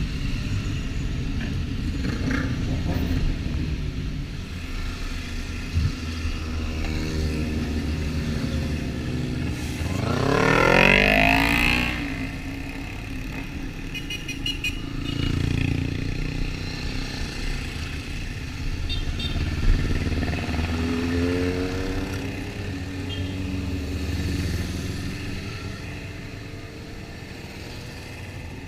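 Motorcycle engine running at road speed under a steady rush of wind noise. About ten seconds in, an engine revs up hard, its pitch climbing steeply, and near twenty-one seconds another, softer rise in revs follows.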